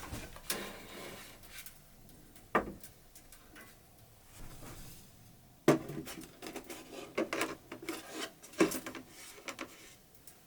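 Wooden objects being handled: several sharp knocks with rubbing and scraping in between, the loudest knock about halfway through.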